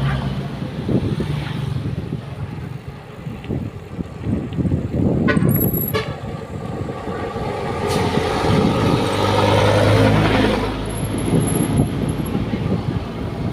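Heavy trucks passing close by, their diesel engines running loud and swelling to a peak about eight to eleven seconds in. A thin high-pitched whistle sounds briefly twice, near six seconds and near eleven seconds.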